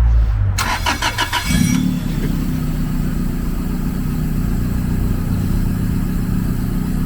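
A car engine cranked on its starter, catching after about a second and a half of cranking and then idling steadily.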